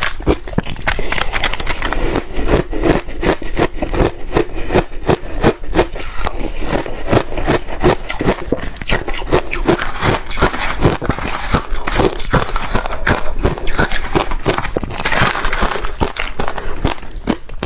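Ice being chewed and crunched close to the microphone: a dense, irregular run of sharp cracking crunches, several a second.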